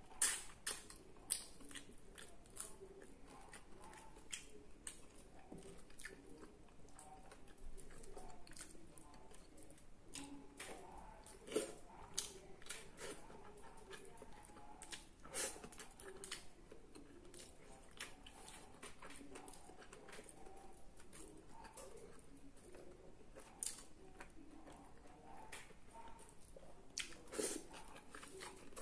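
A person chewing food, with frequent sharp mouth clicks and smacks scattered through the chewing.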